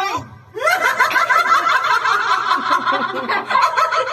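Several women laughing and giggling in quick, high-pitched bursts, starting about half a second in after a short pause.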